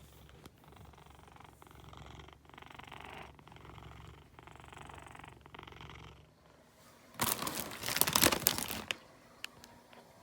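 A flame point Siamese cat purring close to the microphone, in even breaths about a second apart, stopping about six seconds in. A second later comes a loud burst of rustling noise lasting nearly two seconds.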